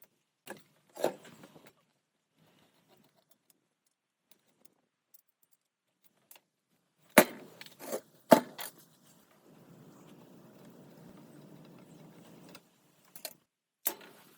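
Sharp metallic clinks and knocks, in scattered groups, as metal parts are handled and set down. A few seconds of quieter, steady noise come between them.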